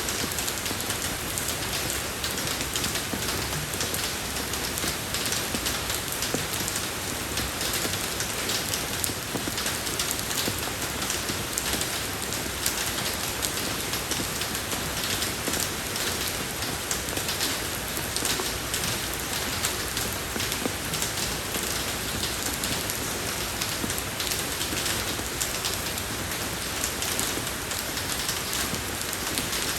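Steady rain falling on a road, a dense, even patter of many drops.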